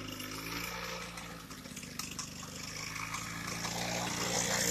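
Small 50cc dirtbike engine running, its pitch shifting a little as the throttle changes, over a noisy hiss; it grows louder toward the end as the bike comes closer.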